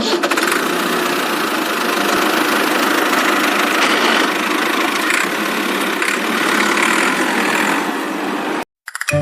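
Toy remote-control car running: a steady mechanical whir and rattle that cuts off suddenly near the end.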